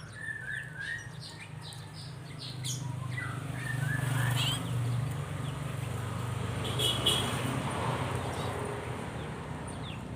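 Small birds chirping in short runs of high notes, over a steady low hum.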